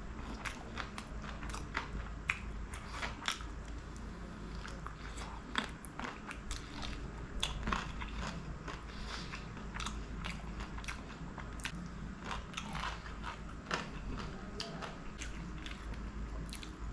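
Close-miked chewing and biting of curried chicken leg meat, with many irregular wet mouth clicks and smacks.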